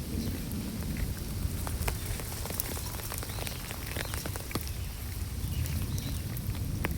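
Rain falling steadily, with individual drops landing close by as scattered sharp ticks, over a constant low rumble.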